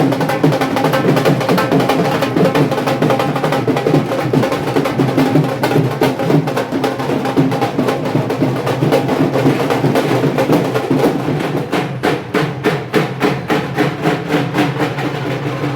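Loud music dominated by fast, dense drumming, with a few steady tones underneath. The rapid drum strokes stand out more clearly near the end.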